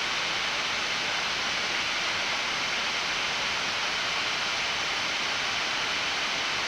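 Steady rushing air noise on the flight deck of a Boeing 787-9 on approach, an even hiss with no change in level.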